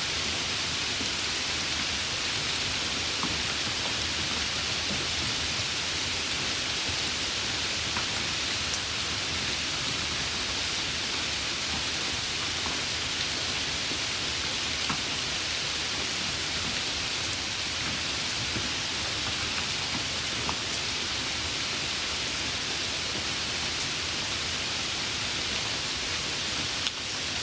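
Light rain falling steadily, a continuous even hiss with a few separate drops ticking now and then.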